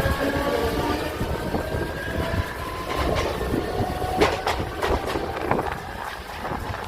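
Train running past: faint falling tones fade out over the first couple of seconds. Then the wheels clatter over the rail joints in irregular sharp clicks.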